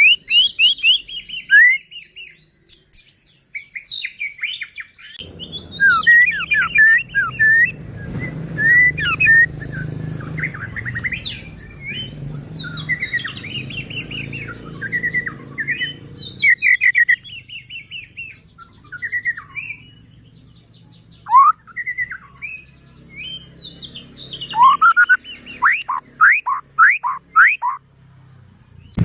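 White-rumped shama (murai batu) singing a long, varied song of loud whistled notes and quick sweeping phrases, with a run of fast repeated downward sweeps near the end.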